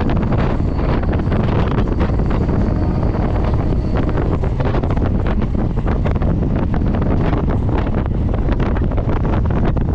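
Wind buffeting the microphone aboard a running MEMU electric train, over the train's steady low rumble, with frequent small knocks and rattles.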